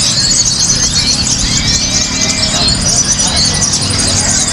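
Many caged kolibri ninja sunbirds singing at once in a contest: a dense, high twittering chatter of quick overlapping notes, over a low murmur of the crowd.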